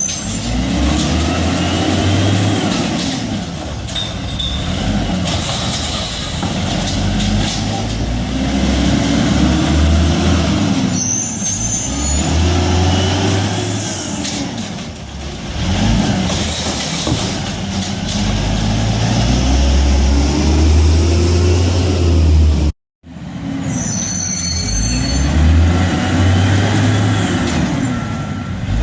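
Garbage truck engine revving up and down over and over, with short air-brake hisses now and then. A reversing beeper starts faintly near the end.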